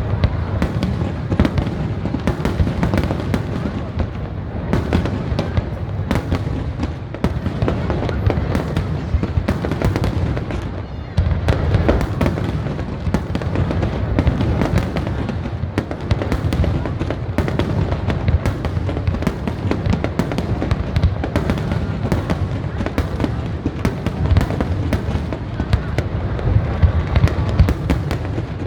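Dense fireworks barrage: a continuous rapid crackle of bursts over a heavy low rumble of booms, easing briefly about ten seconds in, then surging again.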